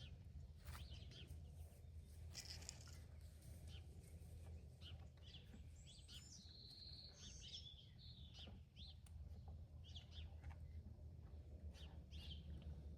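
Faint songbirds chirping: scattered short chirps throughout, with a longer warbling call about six seconds in, over a steady low hum.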